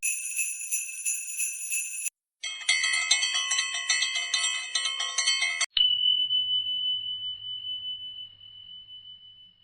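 A run of short meme sound effects: about two seconds of high tinkling like jingle bells, then a brief chiming tune, then a single high ding that rings on and fades slowly.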